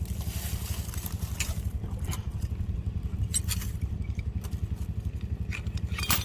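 An engine idling steadily with an even low pulse, with scattered sharp metallic clicks and taps over it from work on a pulley clamped in a vise; the loudest click comes just before the end.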